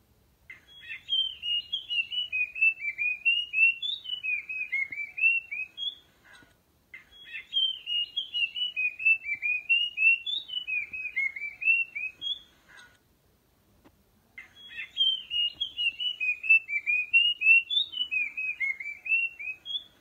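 Song of the streak-breasted ground bird known in Thai as nok krachap din ok lai (nok krong din): a quick rolling run of short whistled notes that dip and rise. The bout comes three times, each about five to six seconds long, with short gaps between, identical each time as a looped lure recording.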